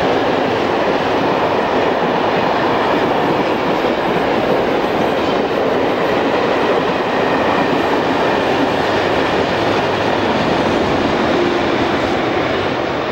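A train running past close by: a steady, loud rush of wheels on rail that eases slightly near the end.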